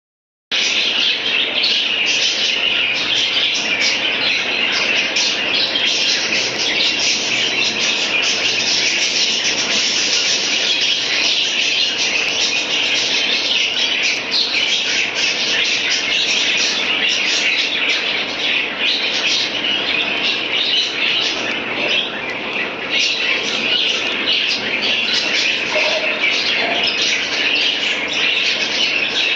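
Many birds chirping and chattering at once, a dense, unbroken chorus of short high calls.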